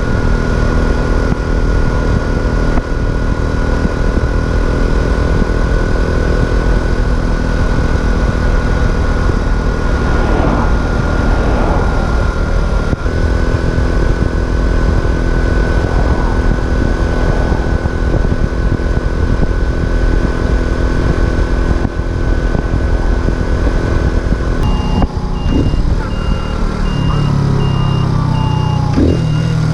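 Racer Alpha RC50 moped's small four-stroke single-cylinder engine running under way, with wind on the microphone; the engine is still being run in. Its note shifts about halfway through and drops lower near the end, when an evenly spaced electronic beeping starts.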